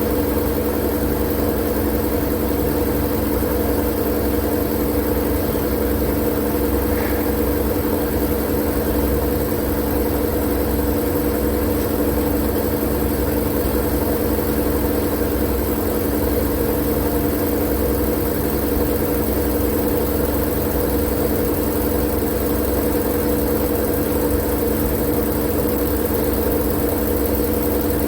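Continuous white-noise track: a steady hiss over a constant low, motor-like hum and rumble, unchanging throughout.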